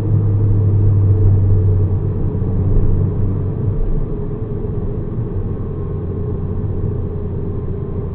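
Mazda RX-7 FD3S's twin-turbo 13B rotary engine running at a steady speed with a low engine note, easing slightly about four seconds in, then cutting off abruptly.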